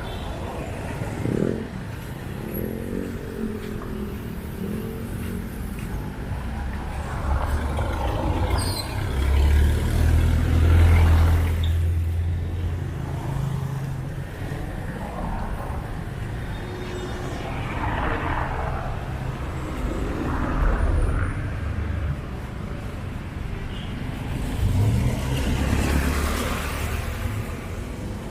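Street traffic on a narrow city road: cars and motorcycles pass one after another with low engine rumble. The rumble swells as vehicles go by, loudest a little before the middle and again near the end.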